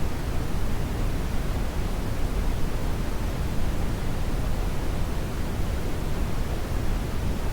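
Brown noise: a steady, even hiss-like rumble, strongest in the low end and fading toward the highs, with no changes.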